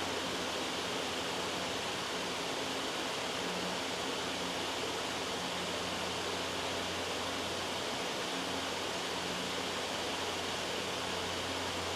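Steady loud white noise: an even hiss with no change.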